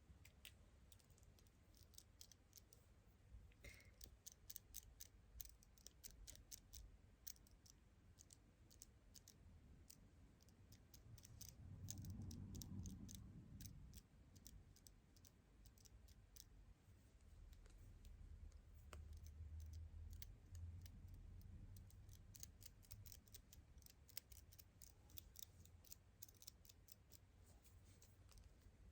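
Faint, quick clicks and light taps from hands and small tools working on a smartphone while decorating its camera lens. A low rumble rises about twelve seconds in and again around twenty seconds in.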